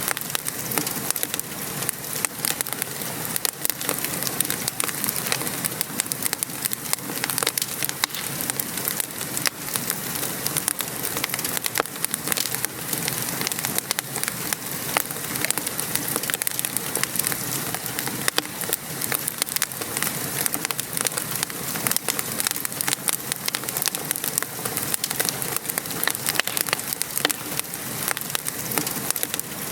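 Wood fire crackling, with frequent small sharp pops, over a steady patter of rain.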